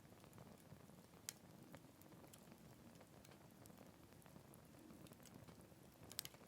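Faint wood campfire burning: a soft, low rustle of flame with sparse sharp crackles, one distinct pop about a second in and a quick cluster of pops near the end.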